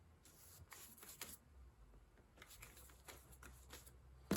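Faint rustling and crinkling of paper being handled and layered for a papier-mâché caul, with a sharper tap near the end.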